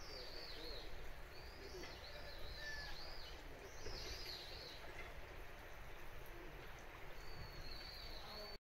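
A small bird calling in runs of quick, high, arching notes, several runs with short gaps between them, over a steady hiss of outdoor background noise. The sound cuts off suddenly at the very end.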